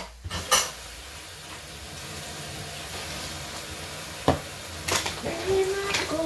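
Tap water running steadily into a bowl to wash mushrooms, with a few knocks of the bowl or hands against it. Near the end a woman starts humming.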